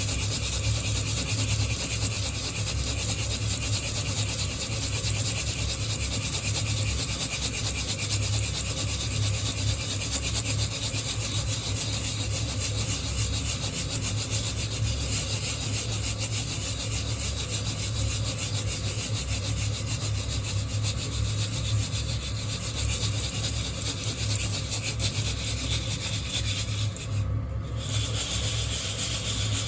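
Coffee beans rubbing and rattling against the wire mesh of a hand-held roasting net as it is shaken continuously, a steady scraping, over a constant low hum; the scraping breaks off for a moment near the end.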